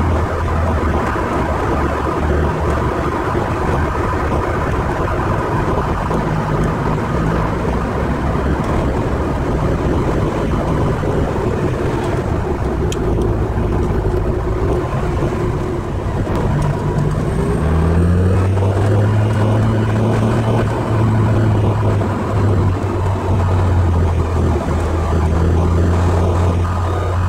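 Ferrari 308 GTSi's V8 engine running at speed, heard from inside the cabin over steady road noise. About two-thirds of the way through, the engine note rises in pitch and grows louder.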